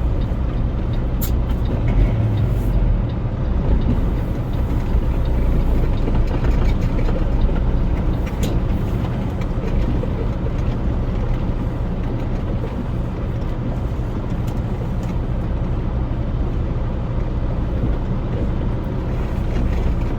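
Truck engine running with a steady low rumble as the truck is driven slowly.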